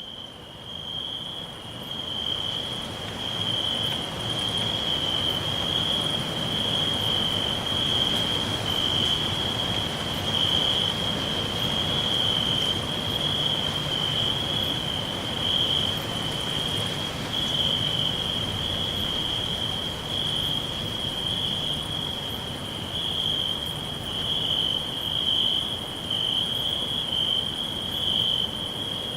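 Crickets chirring in chorus: a continuous high, even trill with a slight pulse, over a soft background hiss. The sound fades in over the first couple of seconds.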